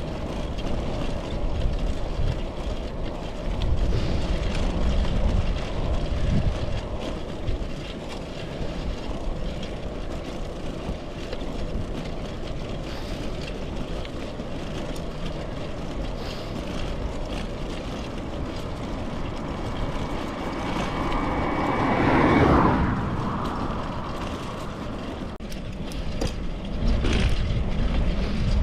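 Steady wind and road noise from riding a bicycle, with low gusts of wind on the microphone. A louder rush swells and falls away about three quarters of the way through.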